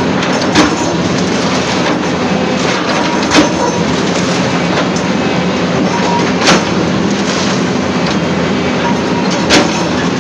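Steady, loud rumbling noise with four short sharp knocks spaced about three seconds apart.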